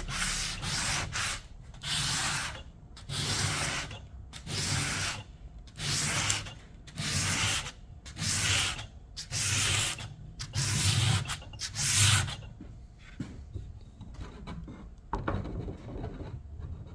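Sandpaper rubbed by hand in back-and-forth strokes, taking off old paint and finish: a few quick strokes, then a steady run of long strokes about a second and a half apart. It stops about twelve seconds in, leaving faint rubbing and one softer stroke near the end.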